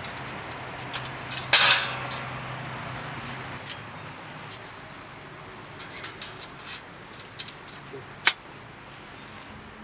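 A ferro rod fire starter struck once with its striker, a short harsh rasp about a second and a half in, followed by scattered small clicks and one sharp click near the end.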